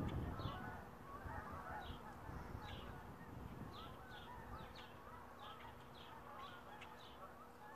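Faint bird calls: honking that dies away in the first second, then many short chirps and high notes repeating a few times a second.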